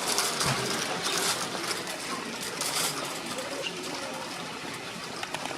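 Steady background noise with a few faint, indistinct voices or calls.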